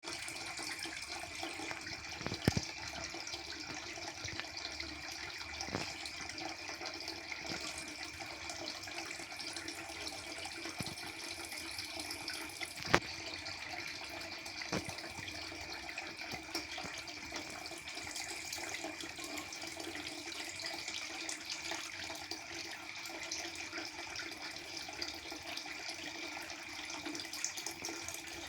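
Aquarium water circulation running steadily, with a steady hum from the pump and a few sharp clicks, the loudest about two and a half seconds in and again about halfway through.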